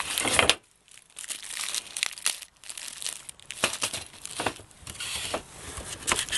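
Packaging being crumpled and rustled by hand in irregular crackling bursts, with a brief pause about half a second in.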